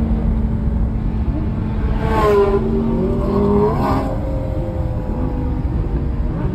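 Audi R8 V10 Plus's 5.2-litre V10 engine heard from inside the cabin while driving on a race track. The engine pitch climbs and then drops sharply twice, about two and four seconds in.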